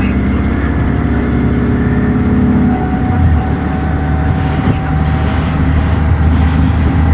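Dennis Trident ALX400 double-decker bus's diesel engine running under way, heard from on board, with its note changing about three seconds in.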